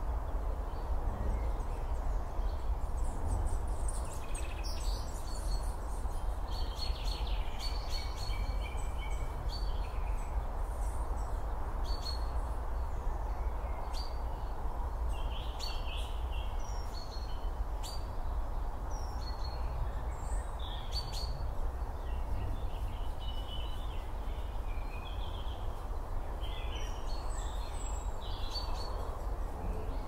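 Woodland birds chirping and calling on and off, short high calls every second or so, over a steady low rumble and hiss.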